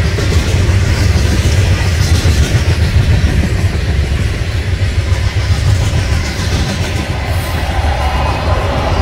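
Freight cars of a manifest train rolling past: a steady, loud, low rumble of steel wheels on the rails.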